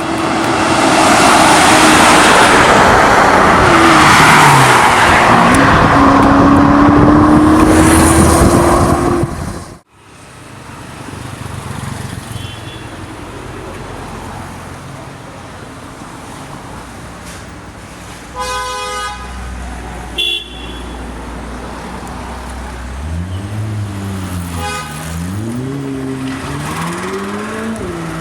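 A supercar's engine running very loud under hard throttle, its pitch climbing, for about ten seconds before it cuts off abruptly. Then quieter street traffic, a car horn sounding once briefly, and near the end an engine revving up and down twice.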